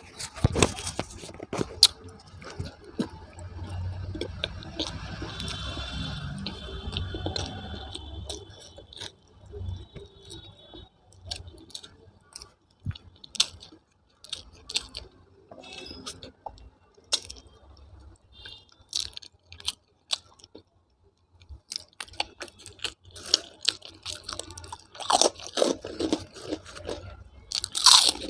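Close-up eating sounds: irregular crunching and chewing.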